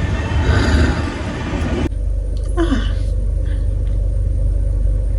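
A loud, steady low rumble with a noisy hiss over it that cuts off abruptly about two seconds in. A brief falling vocal sound follows, a little later.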